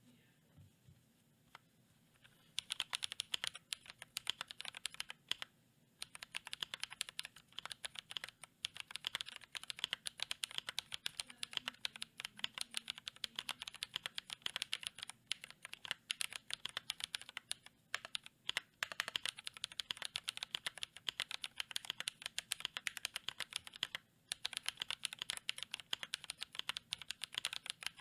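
Typing on a GMMK Pro mechanical keyboard with Glorious Panda tactile switches lubed with Krytox 205g0, on a polycarbonate plate with GMK keycaps. About two and a half seconds in, fast continuous keystrokes start and run on, with a couple of brief pauses.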